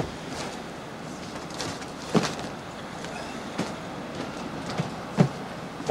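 Steady rumbling background noise with several irregular knocks and clatters.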